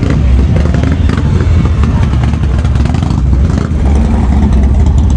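Motorcycle engines running and revving, loud and steady with a heavy low rumble.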